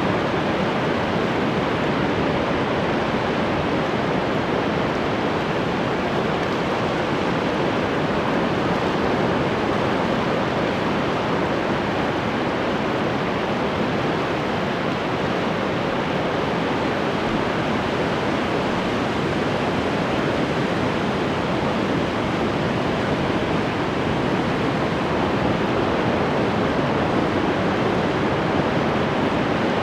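Ocean surf washing ashore as a steady, even rush, with no single wave break standing out.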